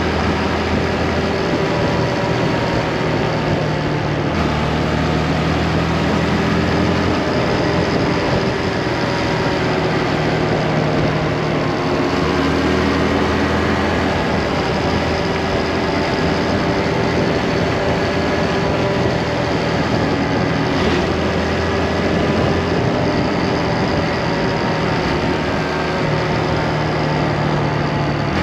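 Motorcycle engine running while riding, its pitch drifting slowly up and down with speed, under steady wind noise on the microphone.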